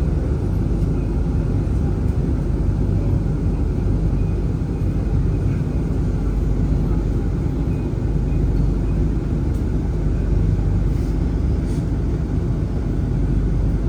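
Steady low rumble of outdoor urban ambience, with no distinct events.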